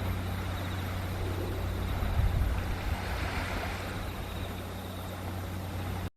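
Steady outdoor background rush over a low hum, with a brief louder swell about two seconds in, cutting off abruptly near the end.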